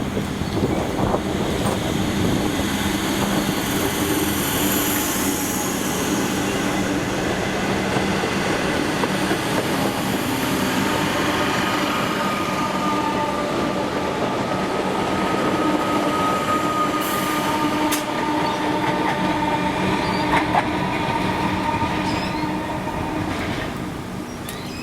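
A train running through, its steel wheels squealing on the rails in steady high tones for much of the passage, over continuous running noise.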